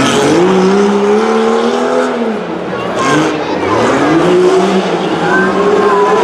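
Competition truck engine revving hard, pitch climbing, dropping off briefly a couple of seconds in, then climbing again and holding high.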